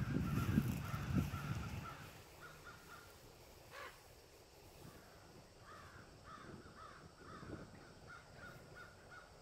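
A bird calling in a series of short repeated notes. A low rustling noise fades out over the first couple of seconds.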